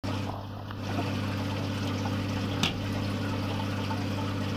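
Aquarium equipment running: a steady low hum from the tank pumps with water trickling and pouring. One sharp click comes about two and a half seconds in.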